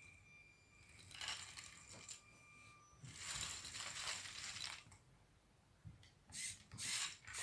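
Motorized LEGO Technic tracked bulldozer: a small electric motor whines steadily for the first few seconds, with two bursts of plastic rattling and clattering, then a few sharp plastic clicks near the end.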